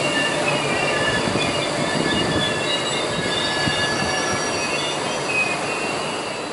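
SBB passenger train's coaches rolling along the track with a steady rumble, the steel wheels letting out many short, scattered high-pitched squeals.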